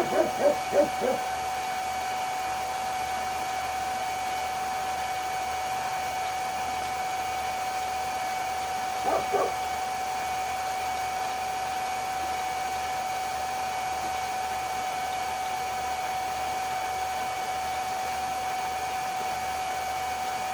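Electric pump running with a steady, loud hum and whine while it drains a pool. Brief bird calls break in twice, about a second in and again around nine seconds in.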